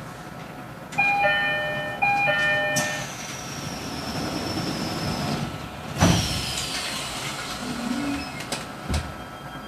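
Door chime of an E129 series electric train sounding twice at a station stop, then a falling whine and a hiss as the doors close, shutting with a thud about six seconds in. A smaller knock follows near the end, over the steady hum of the car's equipment.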